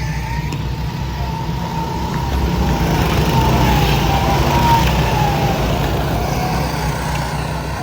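A vehicle engine running hard, with a wavering high tone over it. It grows louder toward the middle and eases off near the end.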